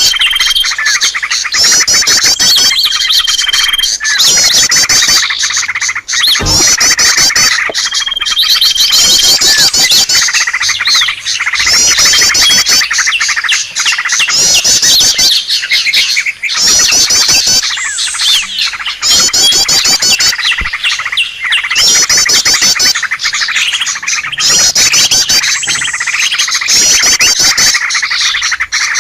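Many small birds chirping and trilling at once, a loud, continuous chorus of high rapid calls in a bird-lure recording meant to draw in wild birds, with trill phrases repeating every second or two.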